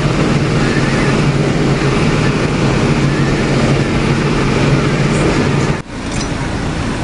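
Tractor engine running steadily, heard from inside the cab. About six seconds in the sound drops out for a moment, then goes on quieter.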